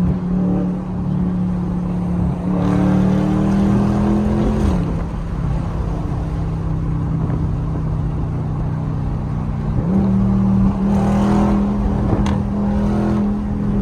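Dodge Scat Pack's 392 (6.4-litre) HEMI V8 with its mid mufflers deleted, driving under load. The revs climb, drop sharply about four and a half seconds in, run lower and steadier, then step back up about ten seconds in for another pull.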